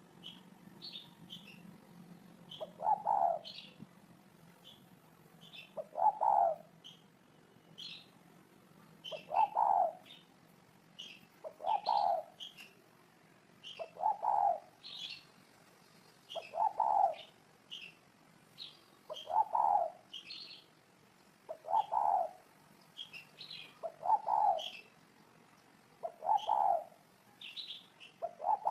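Spotted dove cooing: a low call repeated about every two and a half seconds, with small birds chirping at a higher pitch between the coos.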